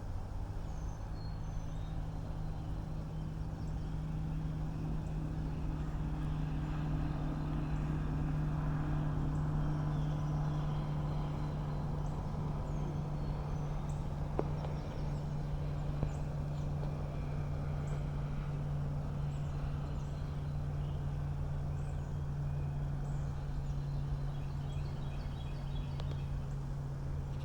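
Small birds chirping faintly over a loud, steady low mechanical hum.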